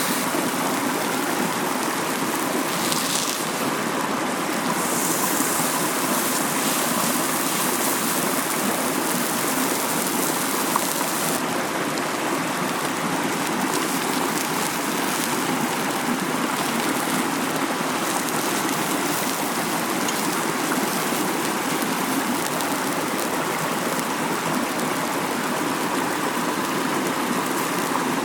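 Mountain stream flowing with a steady rush of water.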